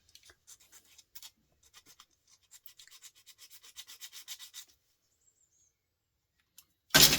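Light, rapid scraping and clicking of a tool working at a small metal part of a record player being dismantled, at about ten strokes a second for a couple of seconds. One loud knock comes near the end.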